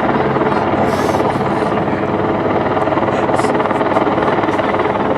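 Helicopter overhead, its rotor and engine running loud and steady.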